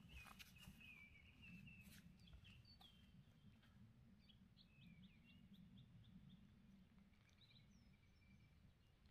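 Faint wild birdsong: a warbling phrase in the first two seconds, then a quick run of short chirps about three to five seconds in, over a low steady background rumble.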